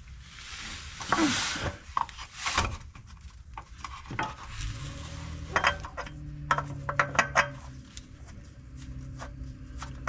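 Metal clinks, taps and scrapes as a spin-on oil filter is fumbled blindly against its mount and the surrounding metal under a truck, with rustling in the first couple of seconds. A steady low hum comes in about halfway through.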